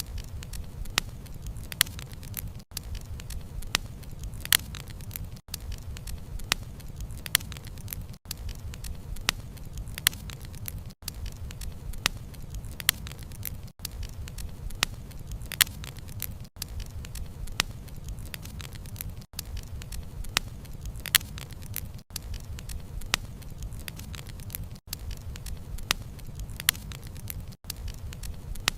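Campfire burning with a low rumble, the wood crackling and popping in sharp, irregular snaps. Very brief dropouts come at even spacing, about every three seconds.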